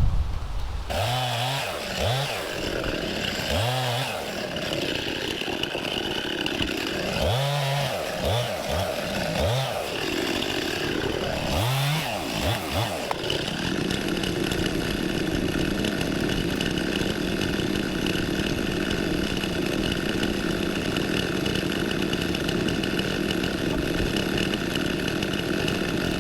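Two-stroke chainsaw revving up and down several times, then held at a steady high pitch for the second half, cutting through a softwood log.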